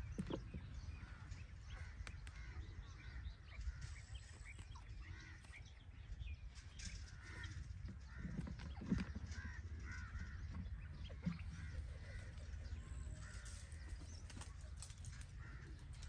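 Birds calling throughout in many short, repeated chirps, with a few brief low thumps.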